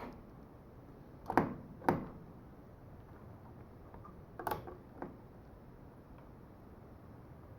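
HO scale model railroad in operation: a low steady running noise with a few sharp clicks, two close together about a second and a half in and two more around four and a half to five seconds.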